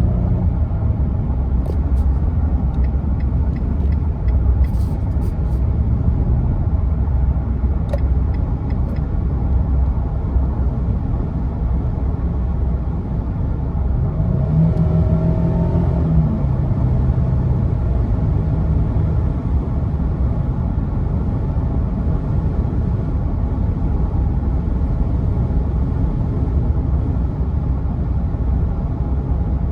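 2022 Nissan Frontier's 3.8-litre V6 engine and exhaust droning steadily. Its pitch rises briefly and then steps down about fifteen seconds in.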